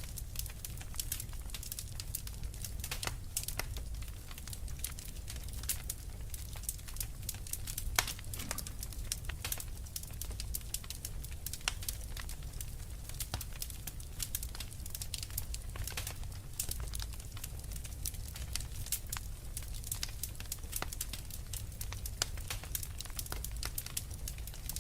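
Fireplace fire crackling: frequent, irregular sharp snaps and pops over a steady low rumble.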